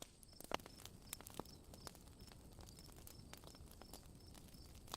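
Faint campfire crackling: irregular small pops and snaps of burning wood, a couple of them sharper about half a second and a second and a half in. A cricket chirps steadily under it, about three short high chirps a second.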